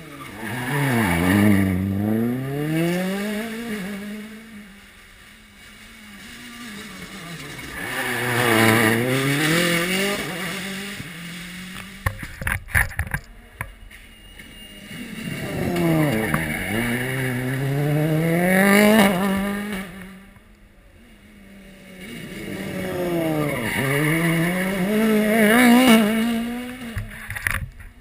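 Rally cars passing one after another at full throttle, four passes in all. Each engine drops in pitch, then revs up through quick gear changes. About halfway through comes a quick cluster of sharp cracks.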